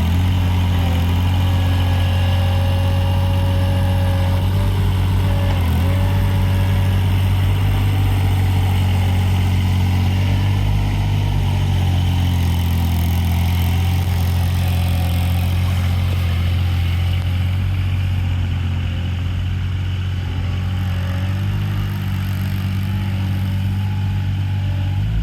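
Avant 423 compact loader's engine running steadily at a constant speed while it moves beehives, a low even drone.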